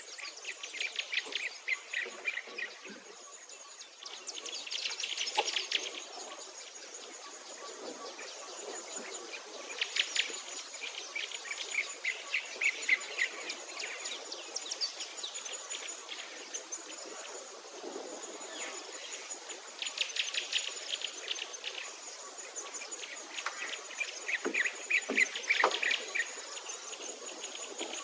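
Outdoor birdsong: several songbirds singing in rapid trills and chirps that come in clusters every few seconds. Behind them a thin, very high note repeats steadily, every second or so.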